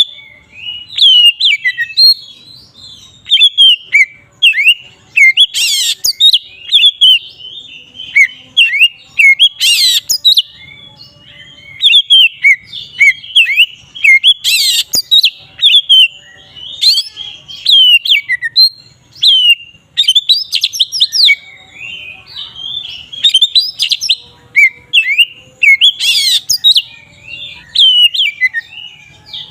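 Oriental magpie-robin singing loud, full song: a fast, unbroken run of varied whistled notes and slurs, with four harsh rasping calls mixed in.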